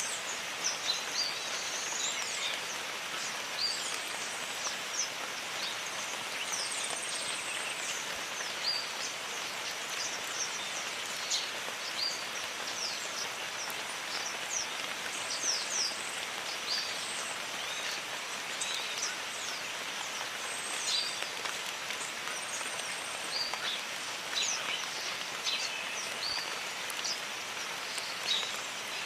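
Steady rain falling in a jungle, with many birds calling over it in short chirps and quick swooping whistles throughout, and a thin steady high tone behind them.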